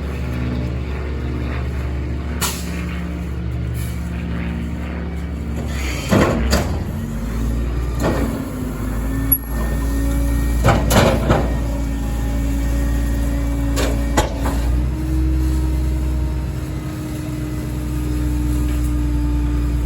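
Kenworth rear-loader garbage truck's diesel engine running with a steady drone while its Heil packer works, with several loud bangs and crashes in the middle as bulk trash is loaded and crushed. The engine's pitch steps up slightly about fifteen seconds in, as the packer is run.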